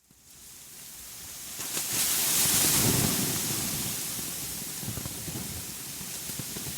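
A steady rushing ambient noise fades in from silence and swells to its loudest about two to three seconds in, with a low rumble under it, then settles to an even level.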